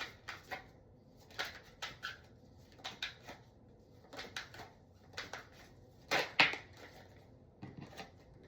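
Tarot cards being shuffled and drawn by hand: short crisp card flicks and slaps in small clusters, the loudest about six seconds in.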